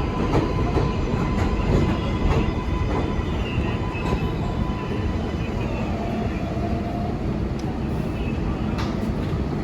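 New York City subway train running along the tracks, wheels clicking over rail joints, the sound easing off over the first few seconds and then holding at a steady rumble.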